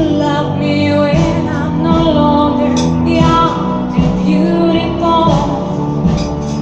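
A woman singing over instrumental accompaniment, holding long notes through the phrases.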